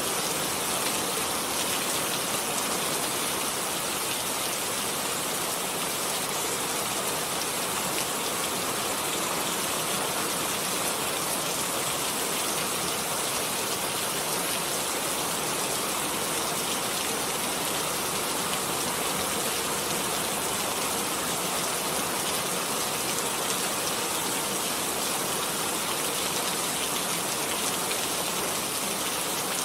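Steady rain falling, an even hiss of drops on surfaces with no pauses or changes.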